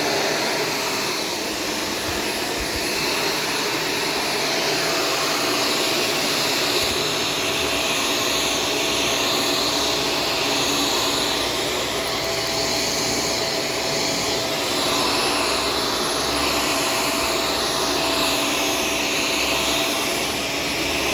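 Shark Stratos upright vacuum cleaner running steadily as it is pushed over the floor, a continuous motor and airflow noise with a thin steady whine.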